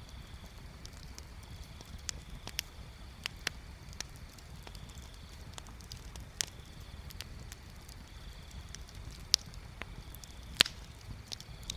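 Wood bonfire crackling, with sharp pops at irregular moments over a steady low rumble; two louder pops come near the end. A faint high trill starts and stops in the background.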